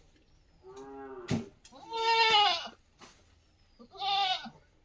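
Goats bleating three times, wavering calls with the middle one the loudest, and a single sharp knock between the first two.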